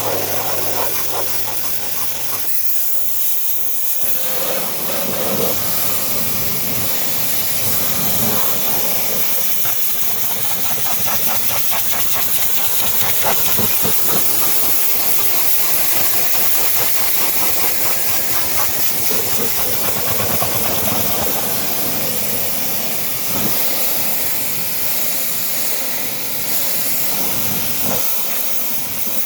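A loud, steady hiss of a high-pressure spray or air jet from car-cleaning equipment, with a machine hum under it for the first couple of seconds.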